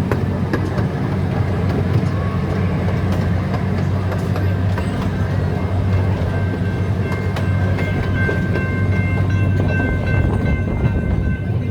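Zoo train running along its track, heard from aboard: a steady low rumble with scattered clicks from the wheels over the rails.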